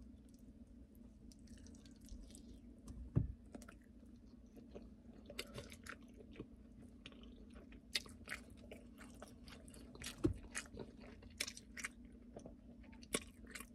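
Close-up wet chewing and lip smacking of a person eating chicken wings, with many short sharp smacks and clicks. Two louder dull thumps come about 3 and 10 seconds in, over a faint steady low hum.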